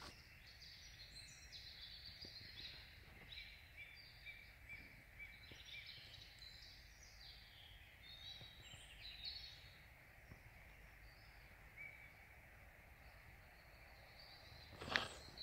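Faint birdsong: many short, high chirping phrases from small birds in the trees over a quiet low outdoor hum. A single brief, louder sound comes about a second before the end.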